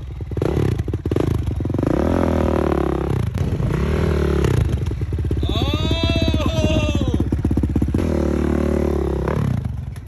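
Dirt bike engine revving up and down several times as the bike is ridden up into a pickup truck bed, with the biggest rev about six seconds in.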